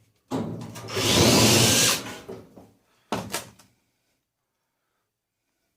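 Battery drill-driver running to back out screws from a tumble dryer's sheet-steel casing. There is one long run of about two seconds, louder and harsher in the middle, then a short burst a little later.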